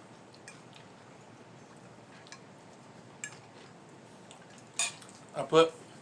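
Cutlery clinking and scraping on dishes during a meal: scattered light clicks, then a couple of louder clatters near the end, along with a short voice sound.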